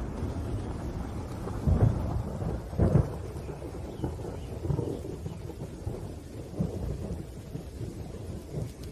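Thunder rumbling over steady rain, with two loud low claps about two and three seconds in and smaller rolls after.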